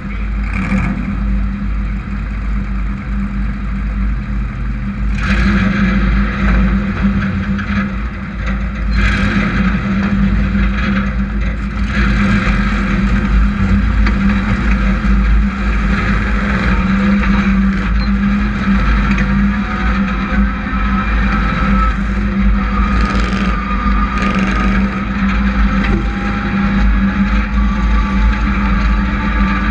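Hobby Truck class race trucks running in a heat race, their engines revving and droning together, with engine tones rising and falling as the trucks accelerate and lift off. The sound grows louder about five seconds in.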